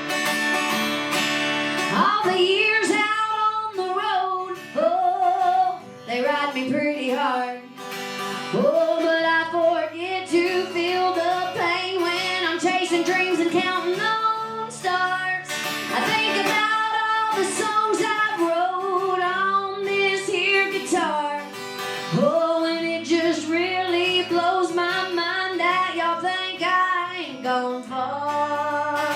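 A woman singing a song with acoustic guitar accompaniment; the singing comes in about two seconds in over the guitar.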